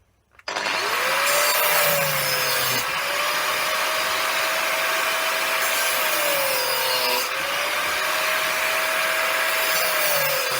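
Electric power tool cutting through the copper coil windings of a small motor's stator. It starts about half a second in and runs steadily, and its pitch sags three times as it bites into the windings.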